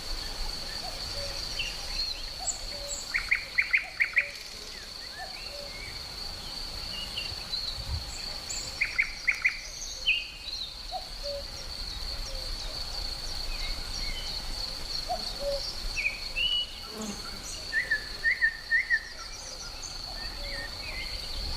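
Several birds chirping and calling, with three short runs of four or five loud, quick notes. A steady high-pitched insect drone runs underneath.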